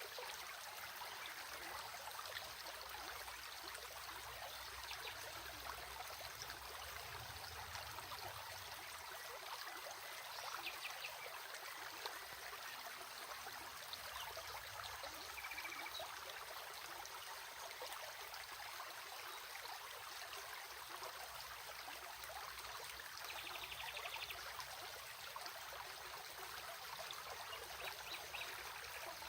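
Stream water flowing and babbling steadily over stones, an even rushing hiss.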